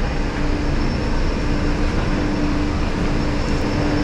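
Heavy vehicle running steadily: an even rushing noise with a constant low hum throughout.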